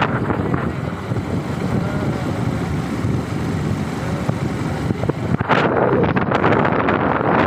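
Wind buffeting the microphone: a steady low rumble and hiss that grows louder about five and a half seconds in.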